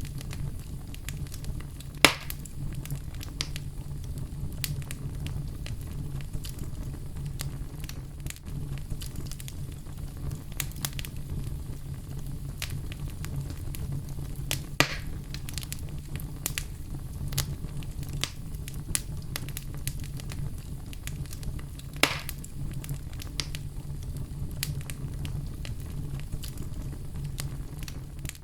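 Wood fire burning with a steady low rumble and constant small crackles, and three louder pops about 2, 15 and 22 seconds in.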